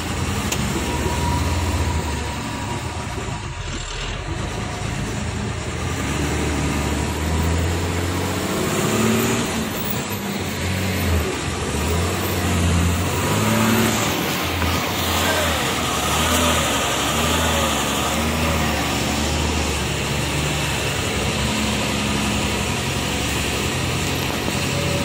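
Truck engine running under load, its pitch rising and falling as it revs.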